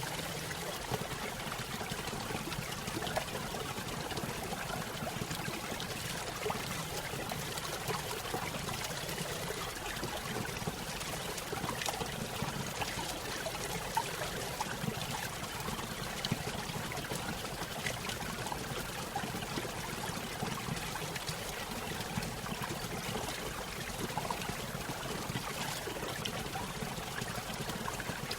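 Small stream spilling over a little waterfall: a steady trickling and splashing of water with many small drops and ripples, no change in level throughout.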